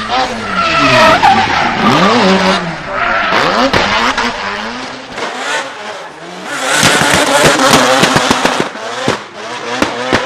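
Drift car engine revving hard up and down through repeated throttle blips, then tyres screeching in a broad hiss over a rapid series of sharp cracks and pops in the second half.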